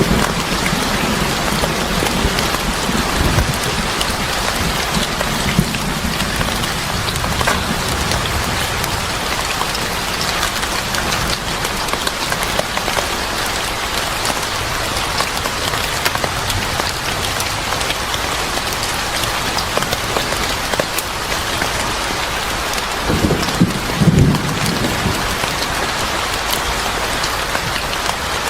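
Steady heavy rain falling and pattering on surfaces, with a low rumble in the first few seconds and another shortly before the end.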